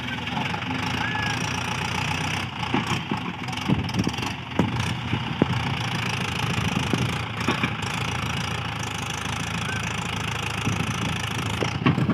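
Mahindra 575 tractor's diesel engine running steadily, with a few light knocks.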